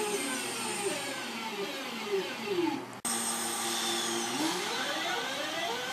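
Electric multiple unit's traction motors and inverter whining in several parallel tones that fall in pitch as the train slows. After an abrupt cut about halfway through, the tones hold steady, then rise together as the train accelerates away.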